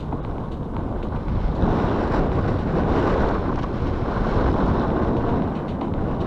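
Wind buffeting the microphone while cycling, a steady low rush that swells louder from about a second and a half in and eases near the end.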